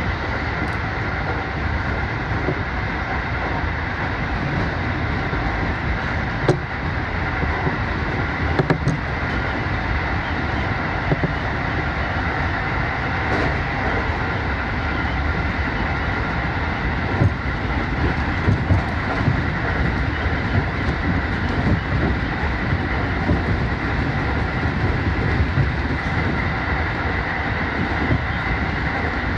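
Electric commuter train running steadily along the line, heard from inside the driver's cab: a continuous rumble of wheels on rail with a faint steady whine, broken by a few short clicks.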